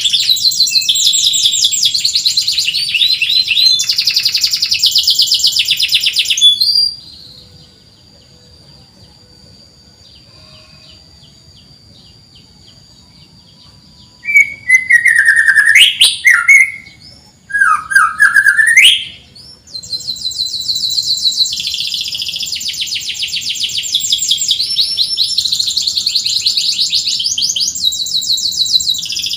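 Domestic canary singing in fast, high, rolling trills. After about a third of the way in it pauses, then gives a few loud swooping whistled notes that rise and fall, and the rapid trilling resumes for the rest.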